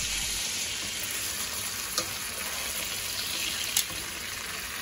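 Portobello mushroom caps sizzling as they fry in melted butter and marinade in a skillet, a steady hiss. Tongs click sharply against the pan twice, about two seconds in and near the end.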